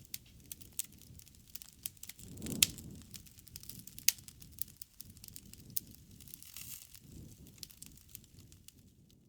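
Wood campfire crackling with many small snaps and a low rumble of flame. A louder flare of the rumble comes about two and a half seconds in, topped by a sharp pop, and a second sharp pop follows about a second and a half later.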